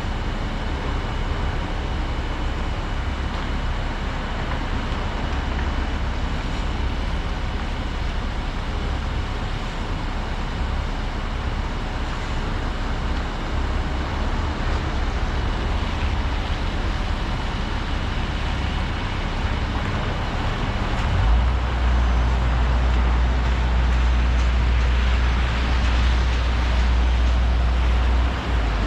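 Volvo 235EL excavator's diesel engine and hydraulics running with a steady low rumble and a faint steady whine. About two thirds of the way in the rumble deepens and grows louder, as the machine comes under heavier load, then eases back right at the end.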